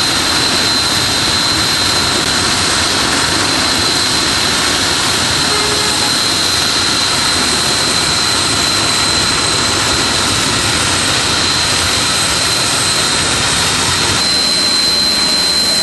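Natural gas escaping under pressure, a steady loud hiss with a high whistling tone running through it.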